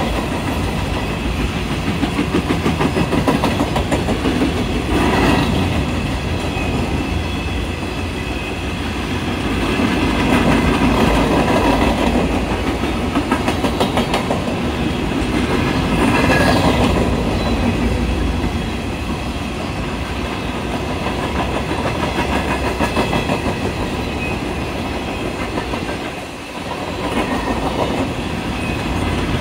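Norfolk Southern coal hopper cars rolling past: a steady rumble with a rapid clickety-clack of wheels over the rail joints. The clatter swells about five and sixteen seconds in and dips briefly near the end.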